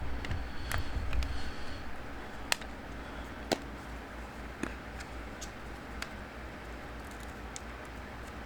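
A few isolated sharp clicks, one to one and a half seconds apart, from handling small parts and tools while reassembling a smartphone, over a low steady hum.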